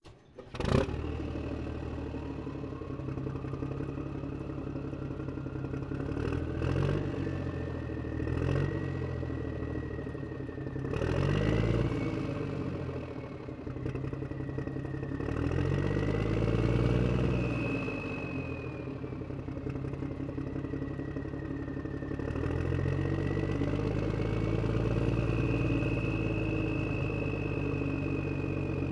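An engine running and revving up and down in repeated swells, with a thin high whine that drifts slowly in pitch. A sharp click comes at the very start.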